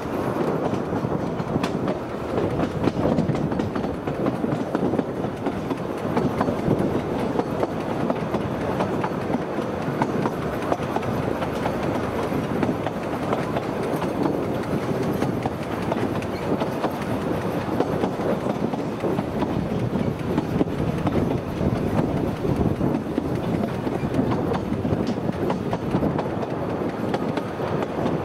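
Narrow-gauge railway train running steadily along the track, its wheels clattering and clicking over the rails.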